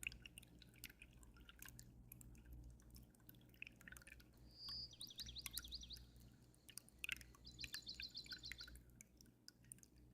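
Faint dripping and trickling water from an aquarium, with a low steady hum underneath. A small bird sings twice over it: a short whistle running into a quick high trill about halfway through, and another quick trill a few seconds later.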